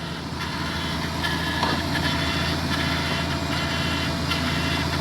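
Freshly swapped Toyota 3.0 L V6 from a 1997 Avalon idling steadily in the engine bay, with a faint ticking over the hum. Right after, the noise is put down to the oil pump lubricating the new engine, with the suspicion of a bad oil pump.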